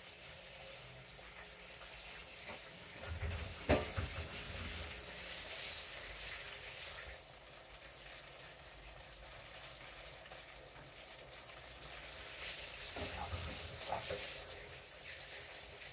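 Chicken party wings frying in hot oil in a skillet, a steady sizzle. The sizzle swells twice, a few seconds in and again near the end, as more pieces go into the oil, each time with a sharp click against the pan.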